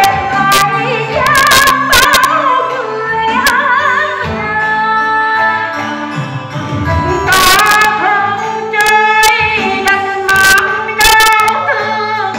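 Female voice singing in Vietnamese cải lương (reformed opera) style with heavy vibrato over instrumental accompaniment, with sharp percussion strikes now and then.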